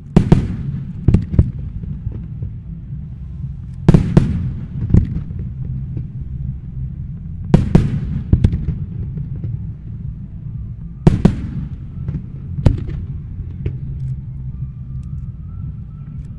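Aerial fireworks bursting in a show: four clusters of sharp bangs, about every three and a half to four seconds, with single smaller bangs between. Each bang trails off in an echo, over a steady low rumble.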